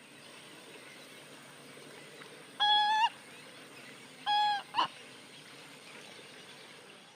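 A bird gives two short, nasal, honk-like calls about a second and a half apart, each a single pitched note with strong overtones, the second followed by a brief rising note. Behind them is a steady hiss of rainforest ambience with a thin high whine.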